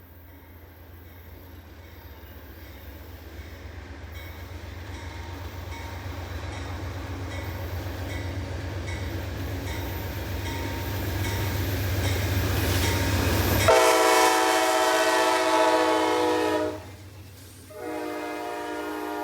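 Amtrak GE Genesis diesel locomotive approaching, its low engine rumble growing steadily louder. About two-thirds of the way in, its horn sounds a multi-note chord for about three seconds, breaks off briefly, then sounds again.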